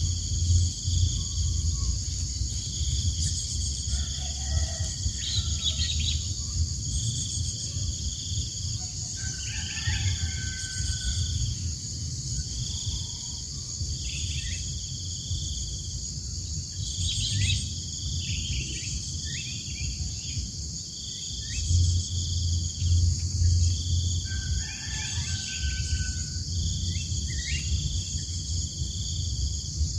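Outdoor insect chorus: a steady high buzz with a cricket-like call repeating in roughly one-second pulses. Birds give short falling chirps throughout, over a low rumble.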